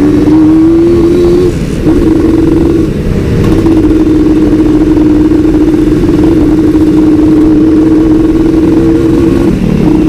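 Suzuki Satria two-stroke motorcycle engine running at steady high revs while riding. Its pitch climbs slightly over the first second and a half, then briefly drops and breaks about 1.5 s in, again around 3 s in, and once more near the end.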